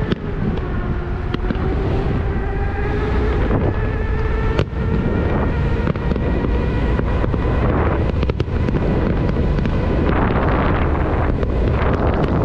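Wind rushing over the microphone while riding an electric unicycle, a steady low rumble, with a pitched whine that dips and then rises again over the first few seconds.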